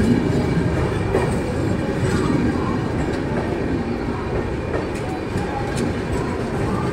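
Red LHB express passenger coaches rolling past as the train pulls out of the station: a steady rumble of wheels on rail with scattered clicks over the rail joints.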